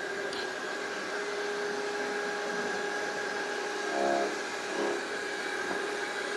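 Small snowblower running steadily with a steady whine, swelling briefly twice about four and five seconds in.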